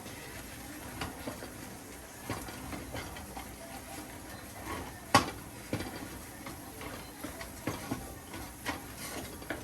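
Kitchen clatter: a cooking utensil knocking and scraping against a pot in scattered, irregular knocks, one louder knock about halfway through, over a steady low hiss of pots on the boil.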